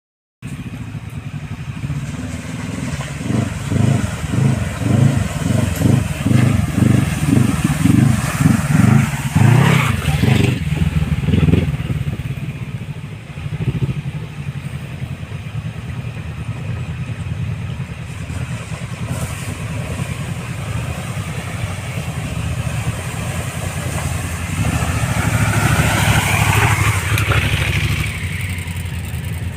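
Dirt bike engine running, surging on and off the throttle in quick bursts through the first third, then running steadily and revving up near the end.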